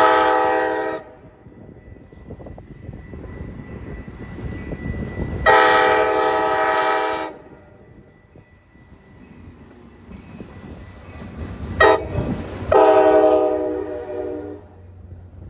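Metra diesel locomotive's air horn sounding the long-long-short-long grade-crossing signal, the first long blast already under way and ending about a second in. A low train rumble carries on between the blasts.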